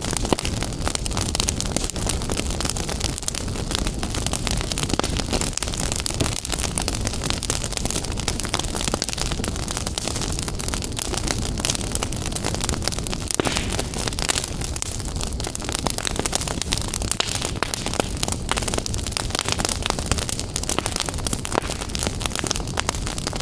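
Fire crackling in a fireplace: many small pops and snaps over a steady low rumble of burning.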